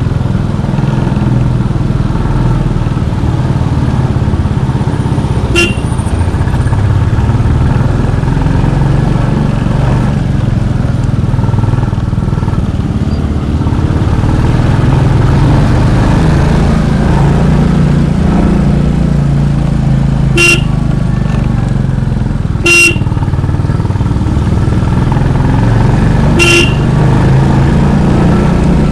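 Royal Enfield Classic 350's single-cylinder engine running under load on a steep climb. Four short horn beeps come through over it, one about five seconds in and three close together in the second half.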